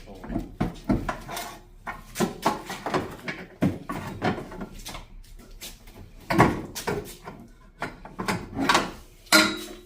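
Irregular knocks and clanks as a stuck exhaust pipe is worked and pulled at under a car, still held by its rubber hanger.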